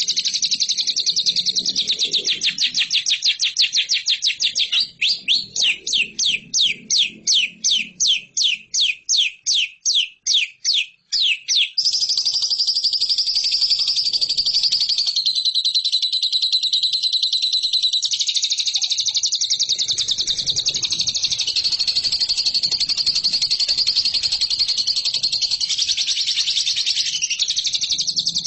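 Lovebird singing a long, fast, high-pitched chattering trill, the continuous 'ngekek' song. About five seconds in it breaks into a run of separate repeated notes, two or three a second, and the unbroken trill resumes about twelve seconds in.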